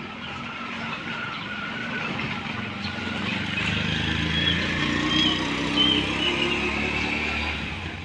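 A motor vehicle passing by, its engine growing louder to a peak after about five seconds, then fading away near the end.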